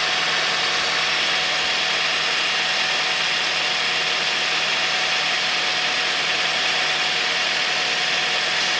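Car engine idling steadily, just refilled with fresh oil, with a faint steady whine over the hum.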